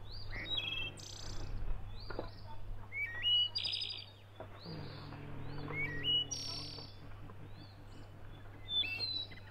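Songbirds chirping, with many short, quick notes that rise and fall. A few faint knocks come in the first half, and a low drone runs from about the middle until two-thirds of the way through.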